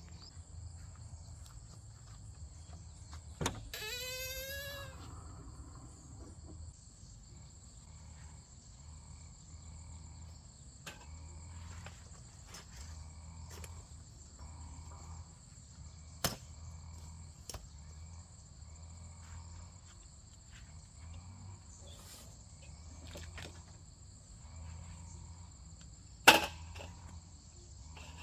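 Insects calling steadily in two high, even tones over a low uneven rumble, with a quick run of falling notes about four seconds in and a few sharp clicks, the loudest near the end.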